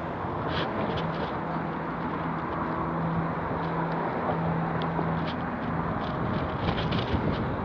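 Street traffic noise: a steady hum of a nearby motor vehicle over a noisy outdoor wash, with scattered light clicks.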